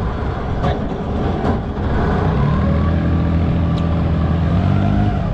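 Small wooden fishing boat's engine running at a steady speed, heard from on board, with a few faint clicks.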